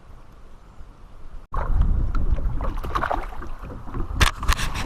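Wind and water noise around a kayak on the water. About a second and a half in it cuts abruptly to louder water and wind rumble, with a few sharp knocks or splashes near the end.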